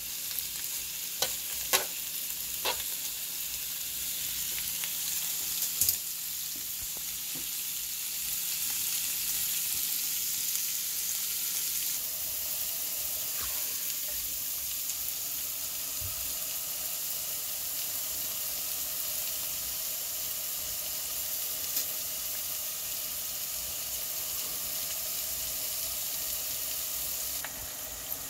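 Sausages and onion rings sizzling on a hot griddle, with a few sharp clicks of metal tongs in the first few seconds. Partway through, the sound becomes potato fries bubbling and sizzling in hot oil in a deep-fryer basket, a steady hiss.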